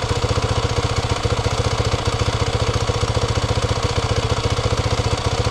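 The bike's engine idling steadily off choke, an even rapid putter of about a dozen firing pulses a second. It is running after several failed starts that the owner puts down to a weak battery or an electrical fault.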